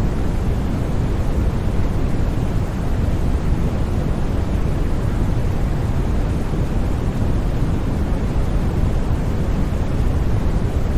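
Steady, unchanging generated noise of the kind used as white noise for sleep, with most of its weight in the low end: an even, deep rush with no breaks or sudden sounds.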